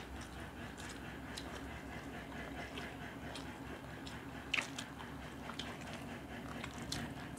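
People eating rice and fish curry by hand close to a clip-on microphone: chewing with scattered wet mouth clicks and smacks, the sharpest about four and a half seconds in.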